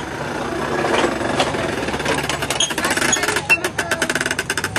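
Ford 6.4 Powerstroke twin-turbo V8 diesel running in a pulling truck. It builds about a second in, and a rapid rattling clatter sets in from about halfway.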